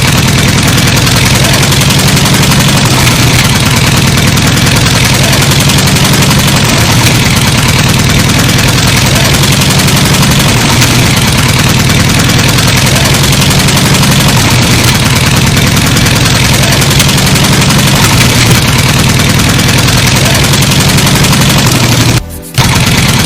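An engine idling steadily and loudly with a rhythmic chug, broken by a brief dropout near the end.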